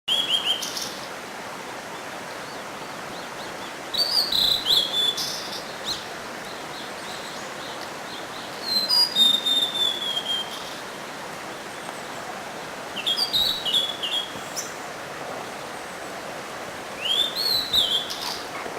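Blue-and-white flycatcher singing: five short phrases of clear whistled notes that slide up and down, coming about every four seconds, over a steady background hiss.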